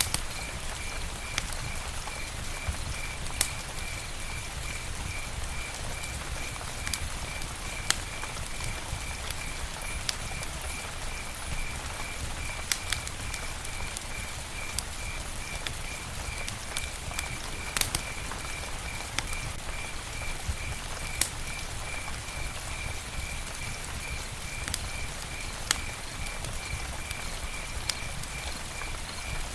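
Wood fire burning, a steady hiss and low rumble broken by sharp crackles and pops, the loudest about 8 and 18 seconds in. A steady chirp repeats about twice a second behind it.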